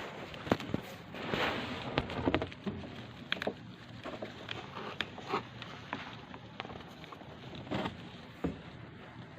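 Hamster nibbling and cracking dry seeds: irregular small crunches and sharp clicks.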